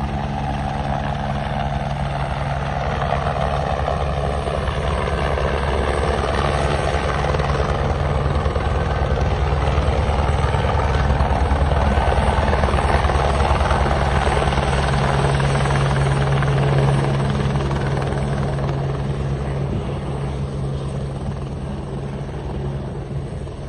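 Steady engine drone with a rapid low pulsing and a rushing noise over it, growing louder to a peak around the middle and then fading toward the end.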